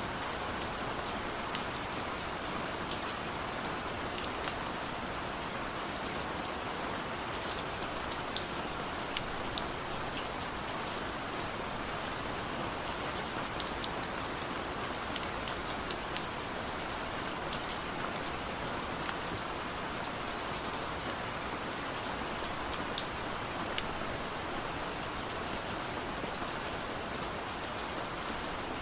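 Steady rain falling: a dense, even hiss with scattered sharper ticks of individual drops. No thunder.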